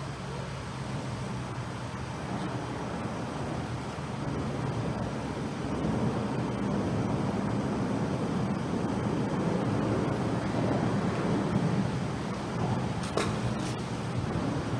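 Road traffic: a vehicle's engine hum builds slowly and holds, over a steady rush of noise, with a couple of short clicks near the end.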